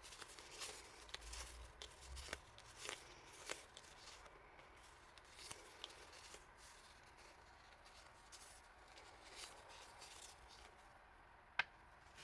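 Faint rustling and tapping of paper and plastic packaging being handled, with small clicks during the first few seconds and one sharp click near the end.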